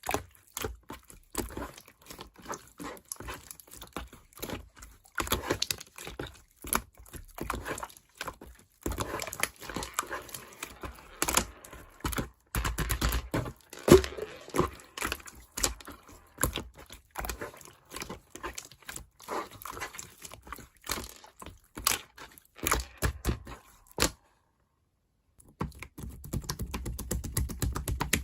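Slime being squeezed and poked by hand: a dense, irregular run of wet clicks, pops and crackles, with a brief silent break near the end.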